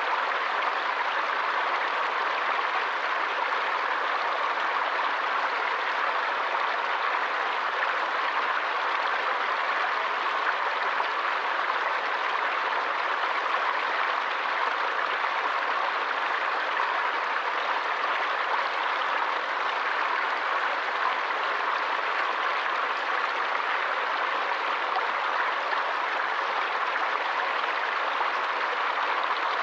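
A forest stream running water in a steady, even rush that never pauses or changes.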